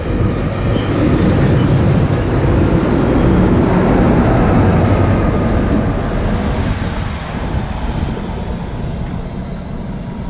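GO Transit commuter train rolling past and away: bilevel coaches rumbling over the rails, with high-pitched wheel squeal in the first few seconds. The MP40PH-3C diesel locomotive at the rear passes about halfway through, and the rumble then fades as the train recedes.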